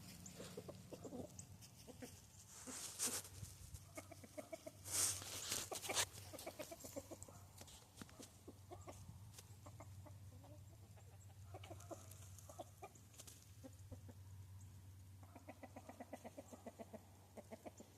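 Backyard chickens clucking softly and repeatedly as they forage, many short low calls throughout. A few brief rustling bursts stand out about three and five seconds in, with a faint steady low hum underneath.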